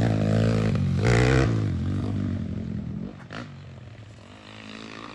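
Off-road motorcycle engine revving hard close by, its pitch rising and falling, then fading off after about three seconds as it moves away. A sharp click a little after three seconds in.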